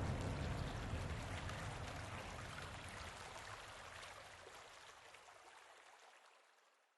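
Steady rushing water ambience, like a river or rain, fading out gradually to silence.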